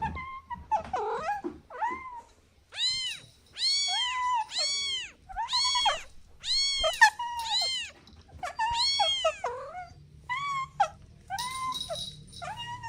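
Kittens meowing repeatedly: high, short, arching meows, one after another, coming in a quick run in the middle.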